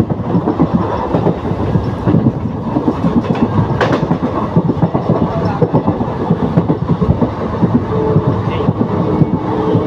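Broad-gauge passenger coach running at speed, its wheels clattering rapidly and continuously over the rail joints, heard from the open coach doorway. One sharp clack stands out about four seconds in.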